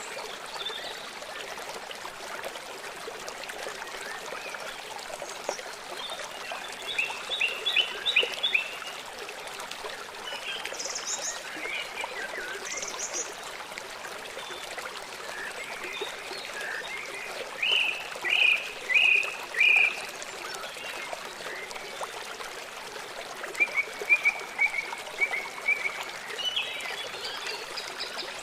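Small songbirds chirping in short runs of quick repeated notes over the steady rush of running water. The loudest runs come about a third of the way in, past the middle, and near the end.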